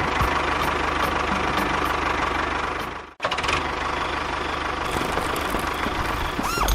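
Engine running steadily with a fast knocking clatter. It cuts out for an instant about three seconds in, then carries on.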